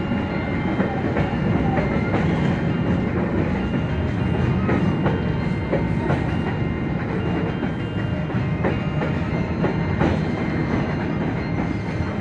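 Container freight train rolling past: the loaded flat wagons run with a steady rumble and clatter over the rails, broken by irregular sharp wheel clicks.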